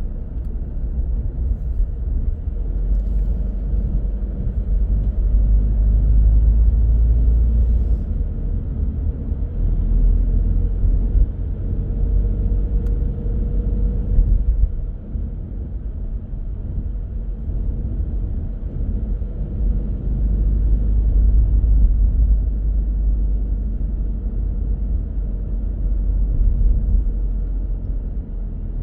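A car being driven on the road: a steady low rumble of engine and tyre noise that swells and eases a few times.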